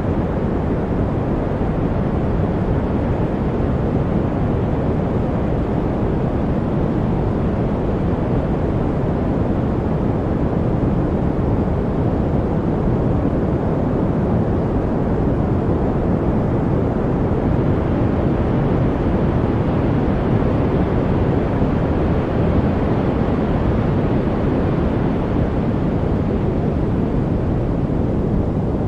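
Steady synthetic noise track, sold as white noise, with no rhythm or events. Most of its energy sits deep and low with little hiss on top, so it sounds darker than true white noise, and it turns a touch brighter about two-thirds of the way through.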